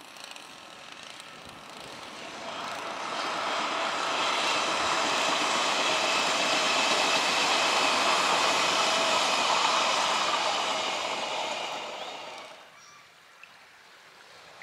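Odakyu 60000 Series MSE electric limited express train passing at speed: a rushing run of wheels on rail. It swells over a couple of seconds, stays loud through the middle, then falls away well before the end.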